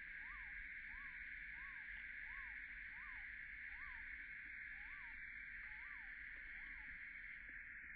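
A steady, even drone of summer cicadas, with a repeated call over it about one and a half times a second: each note rises and falls in pitch, and the calls die away near the end.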